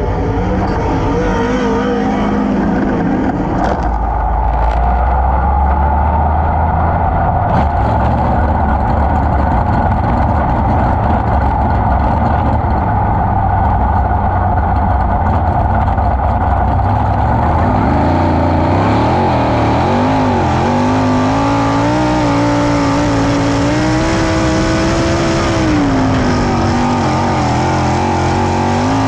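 A 410 sprint car's V8 running hard on a dirt oval at racing speed. From about two-thirds of the way through, its pitch rises and falls repeatedly as the throttle comes on and off.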